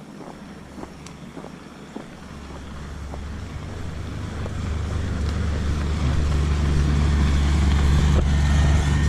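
Footsteps, then from about two seconds in the low rumble of a motor vehicle engine growing steadily louder and staying loud.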